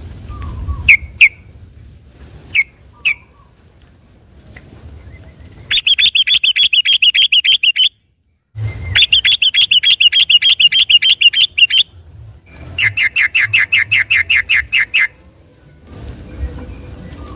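Yellow-vented bulbul (trucukan) singing: a few separate chirps, then three runs of fast repeated notes, about ten a second, each lasting two to three seconds. This is the rapid rolling song that bird keepers call 'ropel'.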